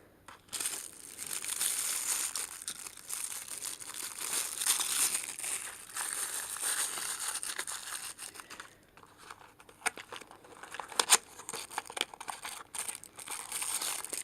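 Packaging crinkling and rustling as it is handled, with scattered sharp crackles and clicks in the second half.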